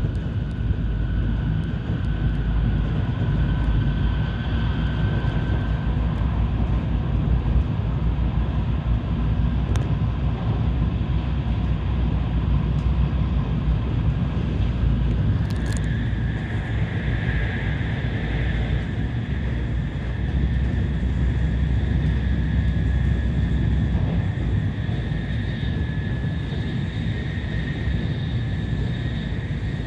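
Tokaido Shinkansen train running at speed, heard from aboard: a steady low rumble of wheels on rail with a faint steady whine above it.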